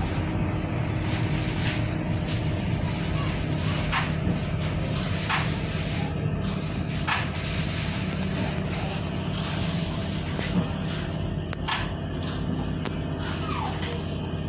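Tyne and Wear Metro train heard from inside the carriage: a steady low rumble and hum of the running train, with a few sharp clicks of the wheels over rail joints and points and a brief falling whine near the end.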